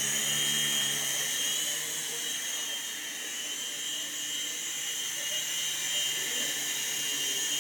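Small coaxial RC helicopter's motors and rotor blades running, a steady high-pitched whine that eases slightly in the middle and comes back up near the end.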